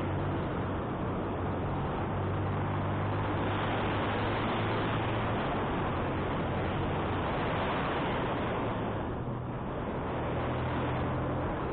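Wind rushing over the microphone of a moving motorcycle, with the motorcycle's engine running steadily underneath as it climbs. The wind noise eases slightly about nine seconds in.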